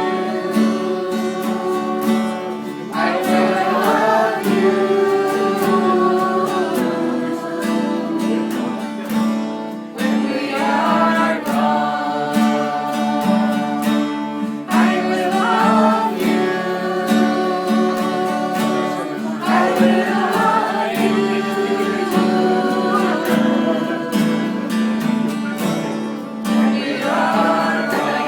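A voice singing with acoustic guitar accompaniment, in phrases a few seconds long over a steady held low note.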